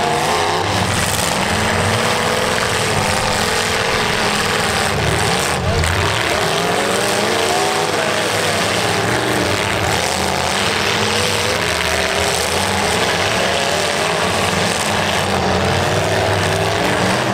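Several demolition derby cars' engines revving hard at once, their pitch rising and falling continually as they rev up and back off, over a steady loud engine noise.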